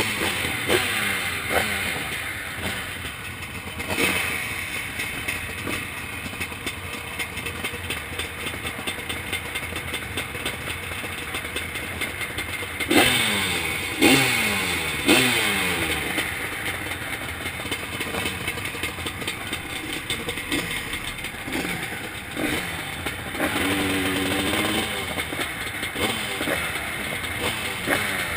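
Zabel 700 two-stroke engine of a motocross sidecar outfit, heard onboard, revving in sharp bursts and falling away in pitch between them, several times in quick succession about halfway through.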